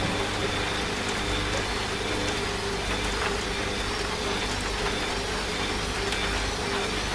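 Washing machine running with a steady motor hum, mixed with the even hiss of steady rain.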